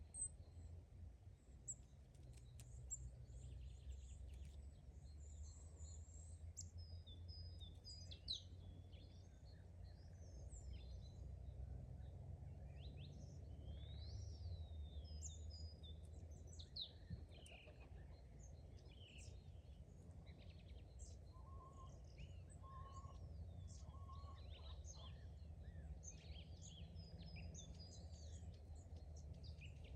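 Faint birdsong from several small birds chirping and trilling over a low steady rumble, with a short run of lower repeated calls about two-thirds of the way through.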